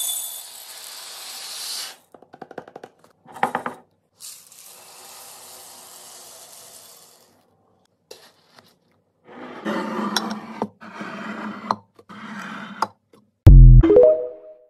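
Kitchen restocking sounds: two stretches of hissing pouring noise with clicks between them, then several bursts of clattering as containers and items are handled. Near the end there is a loud deep thud followed by a short rising tone.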